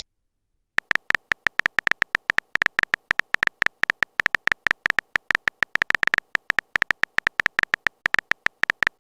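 Typing sound effect: a long, rapid run of short tapping clicks, several a second, each with a thin beep-like tone. It starts just under a second in and stops shortly before the end.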